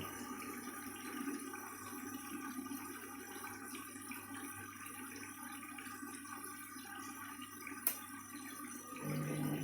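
Washing machine pausing between spin runs: the drum motor hum cuts off suddenly, leaving a faint trickle of draining water, with one sharp click near the end. About nine seconds in, the motor hum starts up again loudly.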